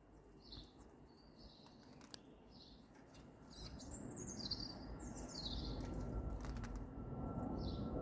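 Birds chirping: short high chirps about once a second, with a run of louder, downward-sweeping calls in the middle. A low rumble of background noise rises from about halfway.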